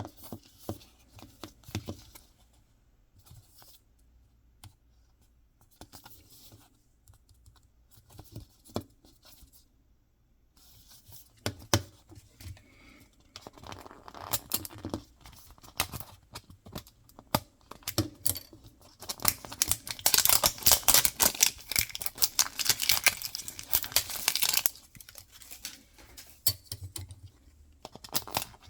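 Mystery-box packaging being handled by hand, torn open and crinkled, with scattered light taps and clicks. The tearing and crinkling grows dense and loudest for several seconds about two-thirds of the way through.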